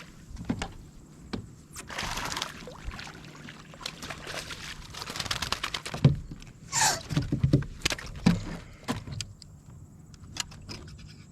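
Fishing gear and a caught flounder being handled aboard a kayak: scattered clicks, rattles and rustling, a short sweeping rasp a little before the middle, and a run of low thumps against the hull.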